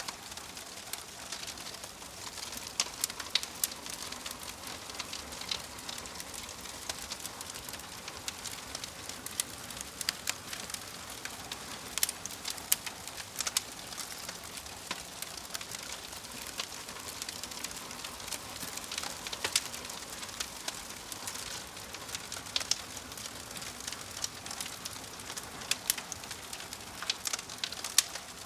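Wood fire burning in a fireplace, crackling with many sharp, irregular pops over a steady soft hiss.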